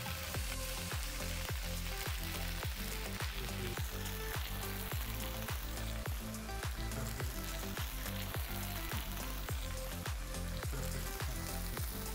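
Marinated paneer and vegetable skewers sizzling steadily in oil on a hot flat iron griddle (tawa), cooking at medium heat. Background music with a steady beat of about two strokes a second runs underneath.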